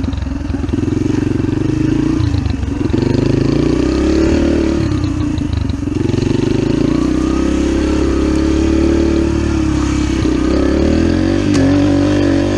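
Dirt bike engine running under way, its revs climbing and dropping several times. A single sharp click sounds near the end.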